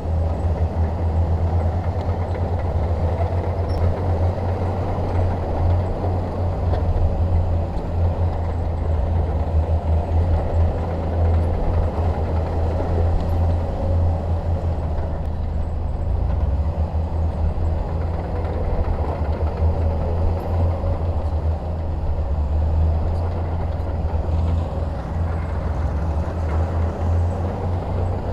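Shantui DH17 bulldozer's diesel engine running steadily with a deep low rumble.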